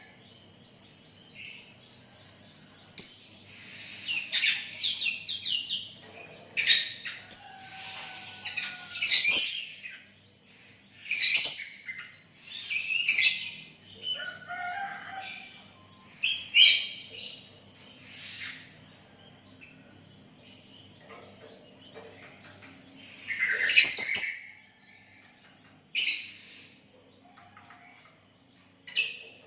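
Sooty-headed bulbul (kutilang) singing vigorously: bursts of short, bright whistled and chirping phrases, loud and frequent through the first half, then coming in scattered outbursts with pauses between.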